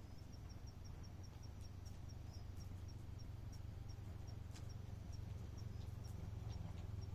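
A cricket chirping outdoors at night: a train of short, high chirps, about six a second at first, slowing to about three a second in the second half. Scattered faint crackles from a campfire and a steady low rumble lie underneath.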